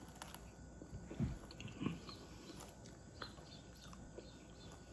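Faint wet chewing of a mouthful of rice and curry eaten by hand, with small mouth clicks and two louder moments between one and two seconds in.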